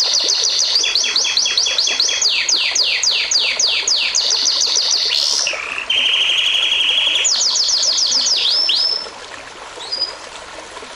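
A songbird singing fast runs of high whistles that each sweep downward, about six a second, broken in the middle by a short buzzy trill. The song stops about nine seconds in, leaving only a faint hiss.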